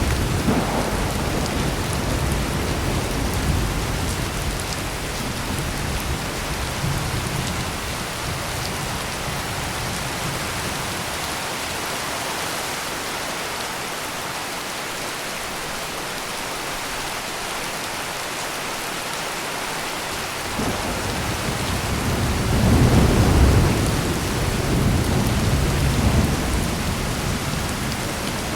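Heavy rain pouring steadily, with low rolling thunder. A rumble fades away over the first several seconds, and another swells up about two-thirds of the way in, loudest a little past the middle of that stretch, before dying down.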